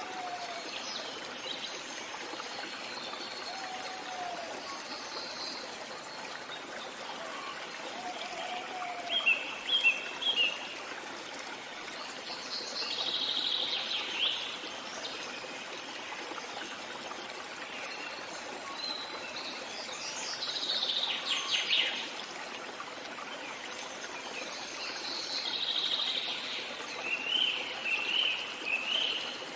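A stream flowing steadily, with birds singing over it: short chirps and trilled phrases every few seconds, and a few soft low whistles in the first seconds.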